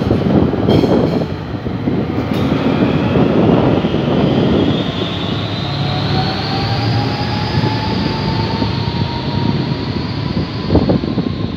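SBB Am 843 diesel locomotive hauling double-deck coaches slowly past: a steady heavy rumble of engine and rolling wheels, with a thin wheel squeal that rises slowly in pitch and holds from a few seconds in. A few sharp knocks from the wheels crossing rail joints, one near the start and one near the end.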